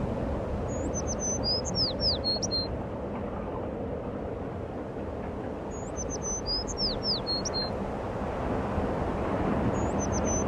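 A songbird singing the same short song three times, about every five seconds: a few quick high notes, then several falling slurs. A steady low background rumble runs underneath.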